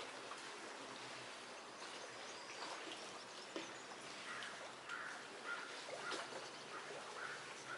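Faint outdoor background hiss with a few soft ticks, and from about halfway through a run of short bird chirps.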